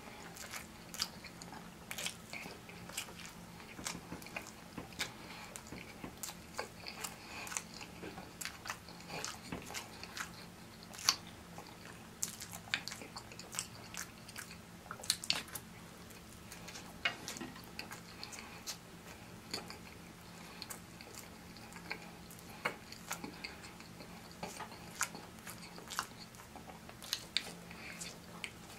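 Close-miked chewing and biting of pancake-wrapped sausages on sticks: irregular sharp smacks and mouth clicks over a steady low hum.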